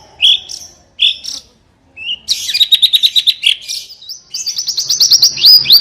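Buxtoni white-eye (pleci) singing: two short chirps, then about two seconds in a fast, even trill, running into a rapid string of high, falling notes near the end, in the canary-like burst style called "tembakan kenari".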